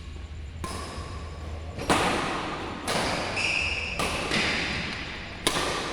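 Badminton rackets striking the shuttlecock in a rally: five sharp hits about a second apart, echoing in a large hall.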